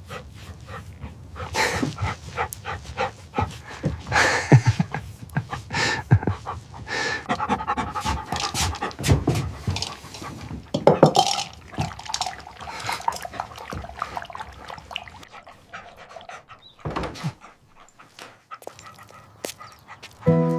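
A large dog panting in quick, irregular breaths.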